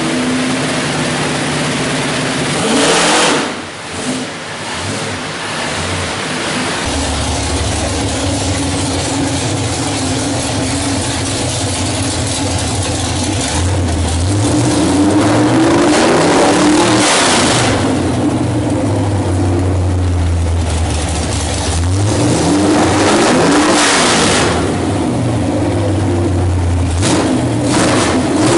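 347 cubic-inch small-block Ford V8 stroker crate engine running on the dyno. It is revved up and back down several times between stretches of steady running, with quick blips near the end.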